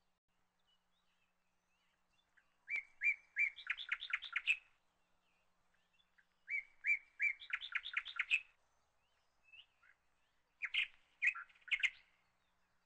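A small bird singing: a phrase of a few separate notes running into a fast trill, sung twice, then a shorter burst of chirps near the end.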